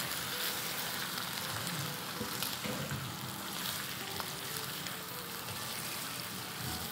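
Chicken pieces, ginger-garlic and whole green chillies sizzling steadily in shallow hot oil in a nonstick karahi. A silicone slotted spatula stirs through them, with a few faint clicks.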